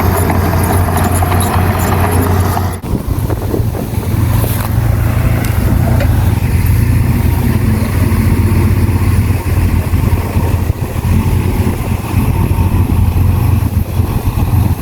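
Heavy diesel construction machinery running steadily with a deep, constant engine hum, briefly breaking off and changing abruptly about three seconds in.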